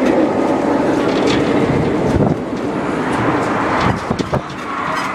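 Parking-lot tram in motion: steady vehicle running and rolling noise, with wind buffeting the microphone and a few clicks and rattles.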